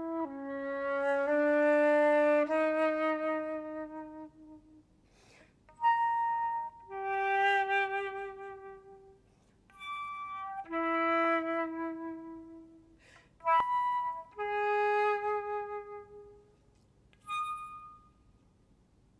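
Solo flute playing a slow, unaccompanied melody in short phrases: held low notes, then several phrases that each start with a short high note and drop to a longer lower one, with brief silences between them.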